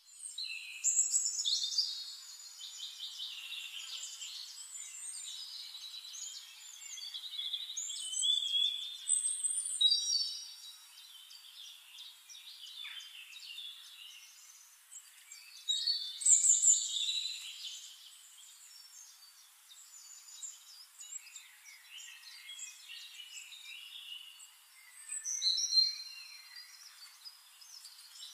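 Birds chirping and singing, many overlapping short high calls, with louder bursts of song about a second in, around eight to ten seconds, around sixteen seconds and near the end.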